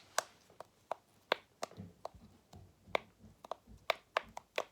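A push-pop fidget toy being pressed over and over with the fingers, popping up and down in a string of sharp, irregular clicks, about three or four a second.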